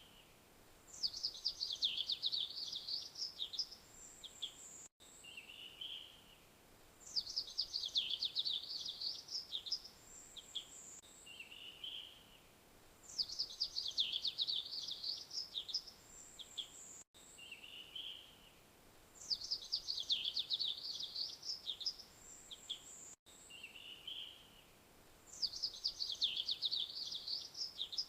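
Australian magpie singing, repeating the same phrase about every six seconds, five times: a quick run of chattering notes lasting about three seconds, then a short high call and a lower note.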